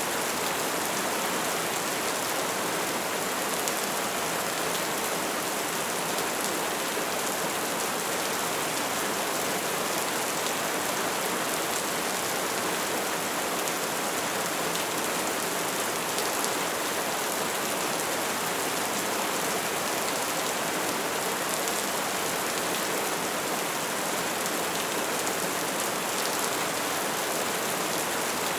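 Steady soft rain falling, a continuous even hiss of drops with faint patters.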